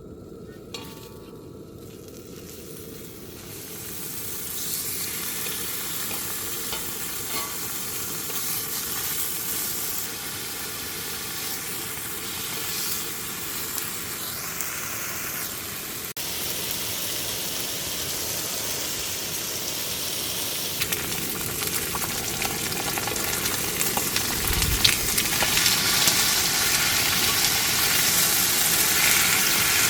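Food sizzling and frying on a hot cooking surface, a steady crackling hiss that grows louder a few seconds in and again in the second half, with a single dull thump near the end.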